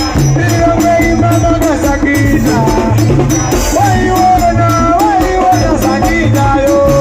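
Loud live band music: a repeating bass line and steady beat with a rattling shaker on every stroke, under a lead melody that slides between notes.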